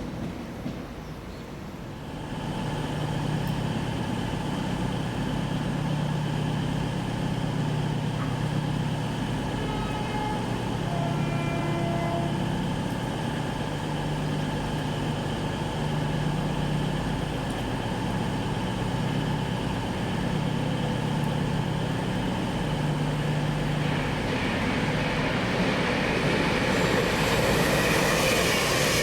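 A train running past at the platform: a steady low hum with a pulsing low tone and held higher whines, joined by a rushing noise that grows louder in the last few seconds.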